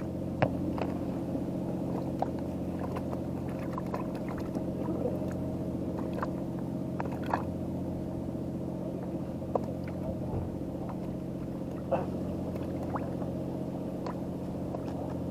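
An engine running steadily at idle, a low even hum, with a few light clicks and taps scattered over it.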